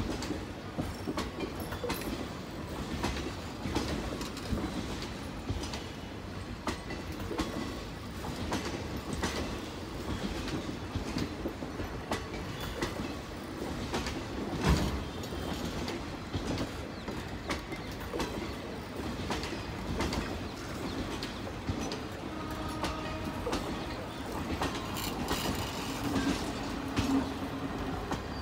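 Indian Railways passenger coaches running past at speed, their wheels clattering over the rail joints in a constant run of clicks and knocks, with one louder bang about halfway through.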